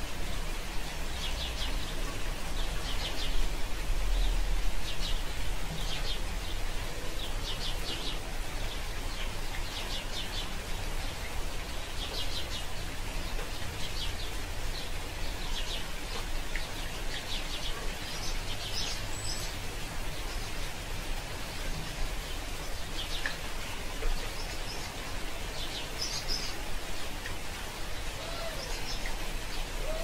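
Small birds chirping in short, rapid trills every second or two over a steady background hiss.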